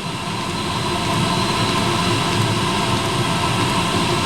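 Eberspacher D1L diesel air heater running: the steady roar of its burner and combustion-air fan with a thin whine over it. It swells a little in the first second, then holds steady, almost running as it should.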